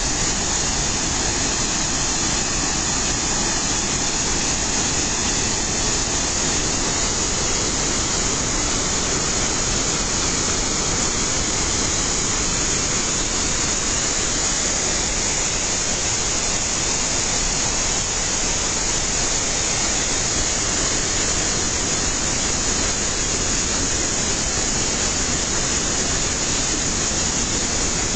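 Fukuroda Falls, a large waterfall, pouring down with a loud, steady, unbroken rush of water.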